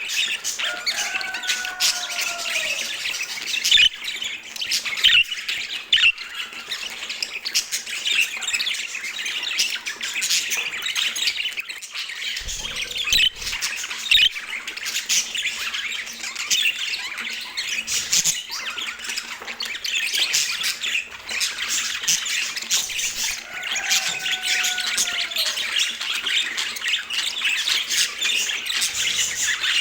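Budgerigars chattering and warbling without pause, with many short squawks and chirps. Twice a longer, falling call stands out, about a second in and again near the end.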